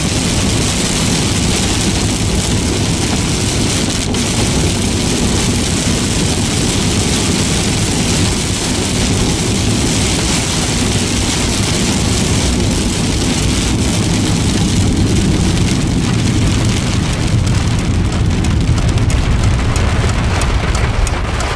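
Heavy rain beating on a car's windshield and roof, heard from inside the cabin, over the low rumble of tyres on a wet road as the car drives. The rain hiss thins near the end.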